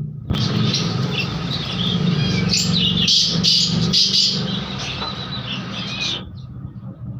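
Many birds chirping and calling at once, a dense chorus that cuts in abruptly and cuts off about six seconds in, over a steady low hum.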